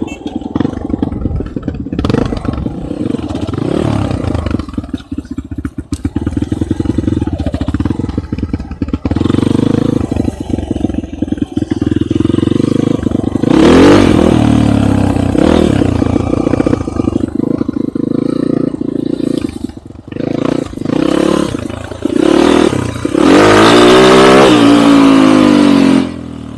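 Enduro motorcycle engine running under way off-road, revving up and down as the rider accelerates and backs off. There are hard bursts of throttle about halfway through and again near the end.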